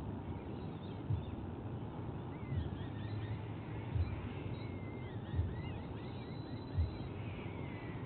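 Faint, high bird chirps over a steady low outdoor rumble, with a dull low thump repeating about every second and a half.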